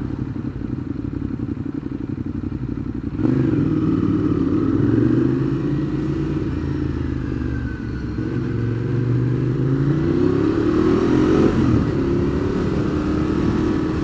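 Ducati Monster 821's 821 cc L-twin engine idling with an even low pulse, then about three seconds in pulling away hard from a standstill. The revs climb through the gears, with gear changes at about eight and twelve seconds in.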